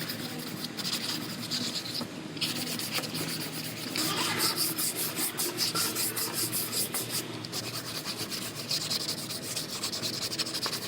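Hand sanding of body filler on a car's quarter-panel seam, with quick, even back-and-forth rubbing strokes of sandpaper.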